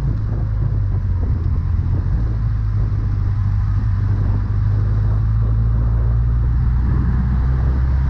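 Motorcycle engine running steadily while riding, with a low rumble of wind and road noise.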